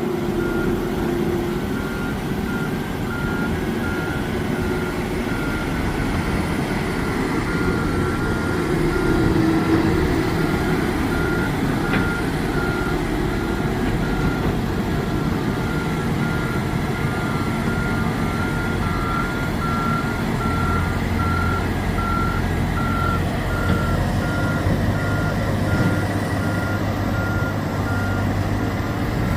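A dump truck's backup alarm beeping in a steady, even rhythm while the truck reverses, over the continuous rumble of its engine.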